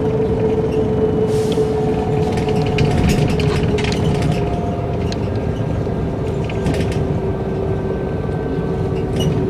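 Mercedes-Benz O405 N² city bus with a Voith automatic gearbox heard while driving: a steady engine and driveline drone with a whine that slowly drops a little in pitch. Interior fittings rattle and click over it, most busily between about one and four seconds in.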